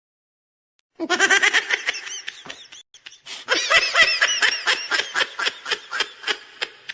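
A person laughing hard in rapid repeated bursts, starting about a second in, breaking off briefly, then laughing again and trailing off.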